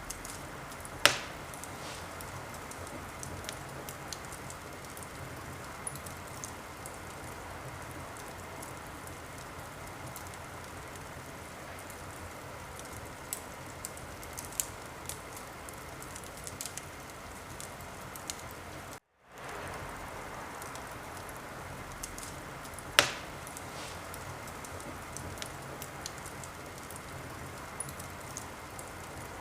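Wood fire crackling in a fireplace: a steady hiss with scattered small crackles and two loud pops, one about a second in and one about two-thirds of the way through. The sound cuts out for an instant just past the middle.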